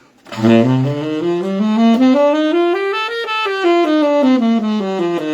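Saxophone playing a scale up and back down over about two octaves, one evenly timed note after another, the highest note a little past the middle.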